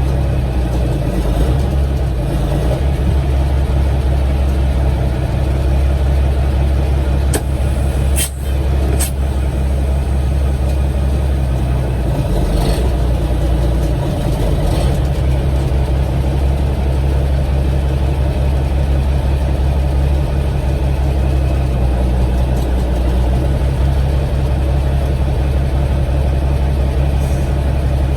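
Semi truck's diesel engine running steadily at low revs as the truck is put in gear and moved slowly forward. A few sharp clicks come about seven to nine seconds in.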